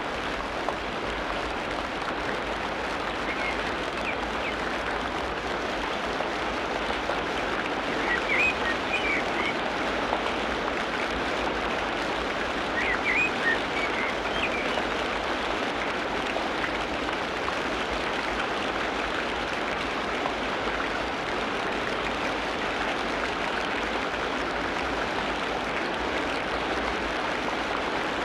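Tropical rainforest ambience: a steady dense hiss, with a few short high chirps in the first half.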